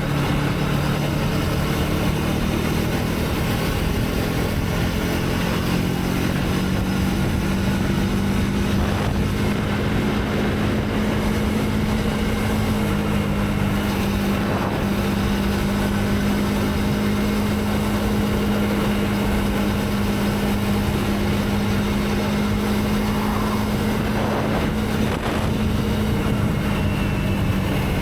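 Motorcycle engine running at a steady cruise under a constant rushing noise; its pitch climbs slowly and eases off again near the end.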